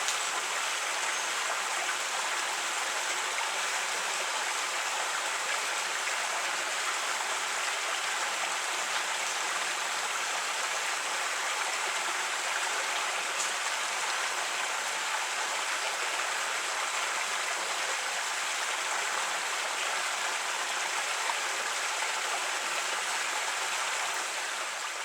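A creek running steadily, water rushing and babbling over rocks, fading out near the end.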